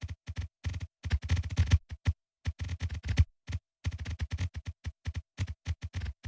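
Rapid, irregular synthesized clicks and short electronic blips, several a second, each sharp and brief, with moments of dead silence between them and a longer silent gap about two seconds in.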